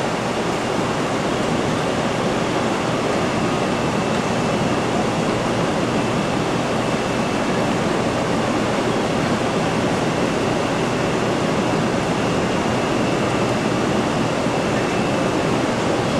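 Shinkansen train standing at the platform: an even rushing of its equipment with a faint high whine.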